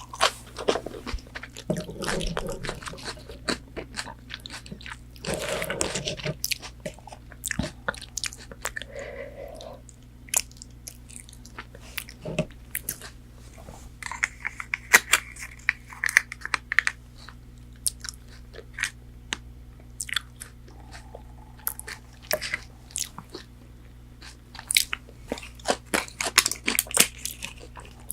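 Close-miked eating of McDonald's chicken nuggets: crunchy bites into the fried coating and chewing, with many irregular sharp crackles that come thickest near the end.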